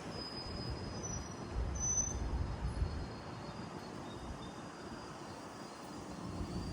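GO Transit commuter train rolling through with a steady low rumble, with a few faint, thin high-pitched squeals.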